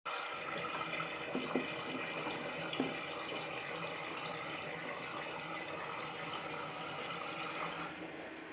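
Modified toy Miele washing machine draining: water running out with the steady hum of a small motor, and a few light clicks in the first three seconds.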